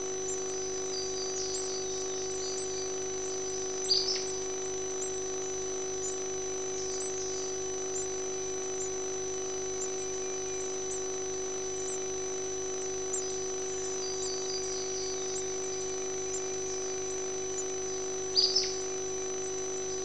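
Faint, high, short bird chirps scattered through, with two louder sharp calls about four seconds in and near the end, over a steady electronic hum.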